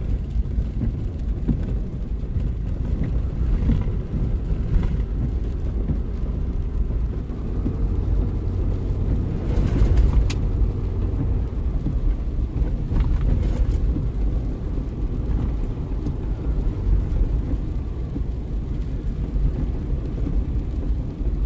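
Pickup truck driving along a rural road, heard from inside the cab: a steady low engine and road rumble, with a few faint brief knocks around the middle.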